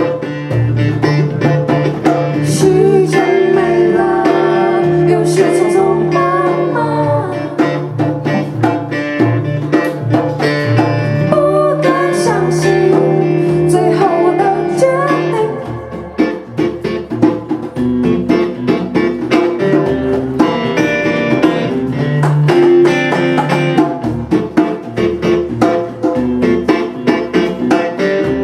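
Live band music led by strummed guitars, with a wavering melody line over them. The sound thins briefly about sixteen seconds in, then the rhythmic strumming picks up again.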